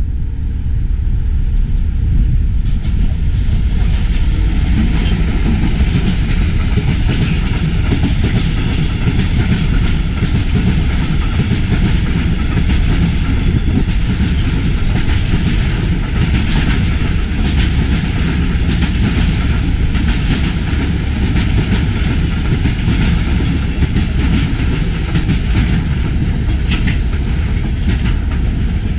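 Diesel train running on the rails: a steady, heavy low rumble with wheels clicking over rail joints throughout.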